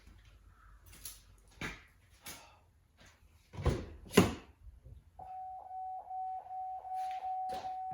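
A few scattered knocks and clatter, then from about five seconds in a steady electronic chime tone that pulses about two and a half times a second.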